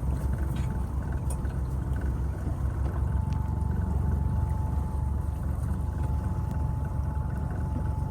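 Steady low rumble of a fishing boat's engine running slowly, with water gurgling and sloshing against the hull and a faint steady whine above.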